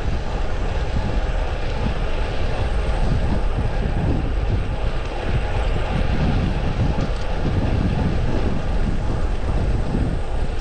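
Wind rushing over the camera microphone on a moving road bike: a loud, steady, unevenly buffeting rumble, with road noise mixed in.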